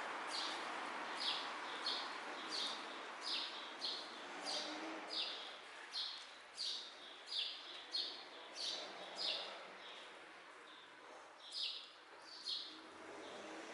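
A small bird calls one short, sharp chirp over and over, each note dropping in pitch, about three every two seconds, with a pause near the end. Underneath is a steady hiss of rain.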